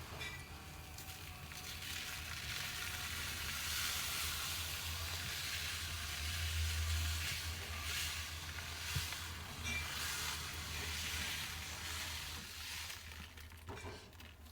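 Loose cat litter sliding and pouring with a steady hiss over a low hum, with a few clicks; the hiss fades near the end.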